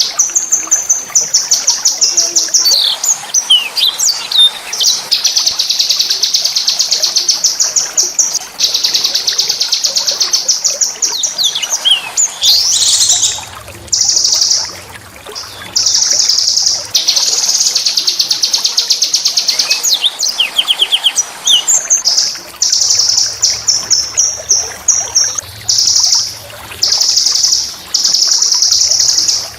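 Small songbird singing loud, high, rolling trills of fast repeated notes, each run lasting a few seconds, broken by short gaps and quick sweeping notes.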